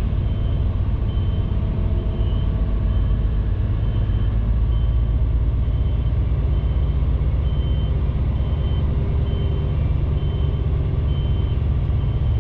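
An HGV's diesel engine running with a steady low rumble while a reversing alarm beeps about once a second: the truck is reversing.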